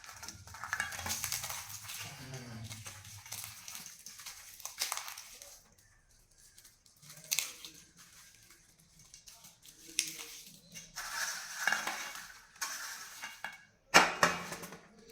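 Fried dry red chillies being crushed and mixed into a chutney on a metal plate, with irregular crackling and scraping and clinks against the plate. A sharp clatter comes near the end.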